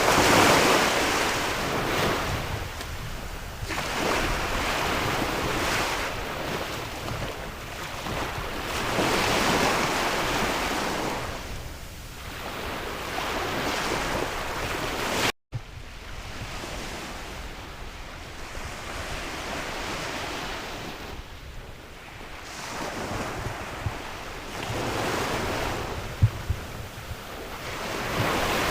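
Sea waves breaking and washing up the shore in swells every few seconds, with wind rumbling on the microphone. The sound cuts out for a moment about halfway through.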